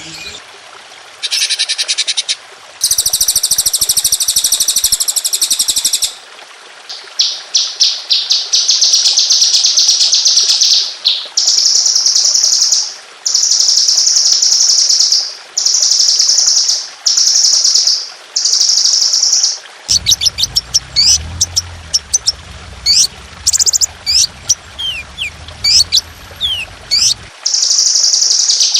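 Songbird song of the 'tembakan' kind: fast, dense high trills repeated in bursts of about a second and a half, then a run of quick rising whistle notes in the last third. A low hum runs underneath the later part.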